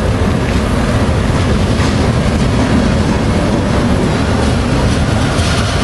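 Freight train gondola cars rolling past close by: a loud, steady rumble of steel wheels on the rails, with a few faint clicks as wheels cross the rail joints.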